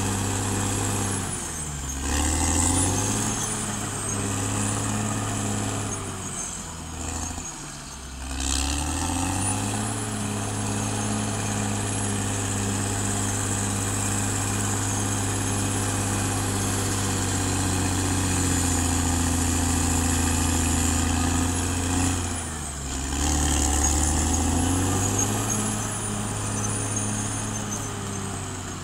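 Caterpillar D6R XL bulldozer's diesel engine running steadily, with a high whine over it. Three times the engine note drops and then climbs back, about two seconds in, around eight seconds and again near twenty-three seconds, and the whine falls and rises with it.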